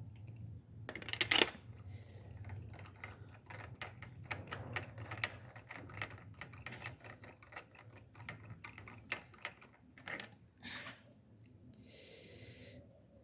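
Ratchet wrench clicking in quick runs while a spark plug is worked out of the engine's plug well, with a couple of louder tool knocks about a second in.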